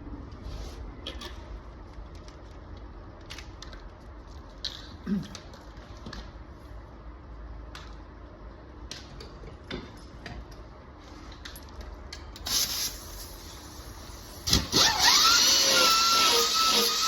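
Scattered clicks and knocks of tools and metal parts being handled, over a low hum. Near the end a loud sound starts suddenly, with a whine that sweeps up and then holds a steady high pitch.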